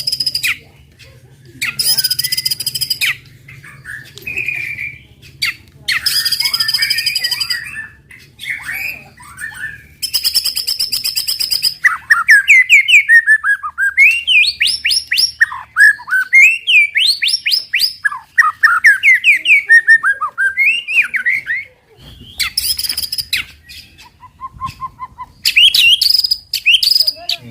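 White-rumped shama (murai batu) singing a fast 'tembakan' challenge song, the aggressive kind used to provoke other shamas into singing. Harsh rasping bursts about a second long alternate with a long run of rapid rising and falling whistled phrases in the middle.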